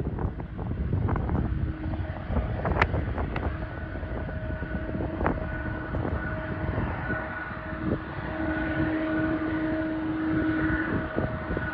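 Jet airliner engines running: a low rumble with a steady whine of several held tones that comes in about two seconds in.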